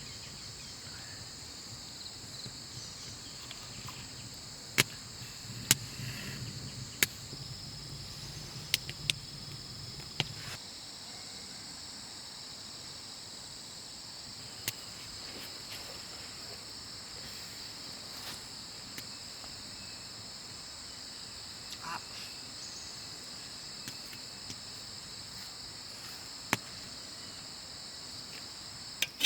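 Insect chorus, a constant high-pitched buzz at two pitches, with about a dozen sharp snaps or knocks scattered over it. A low hum underneath stops about ten seconds in.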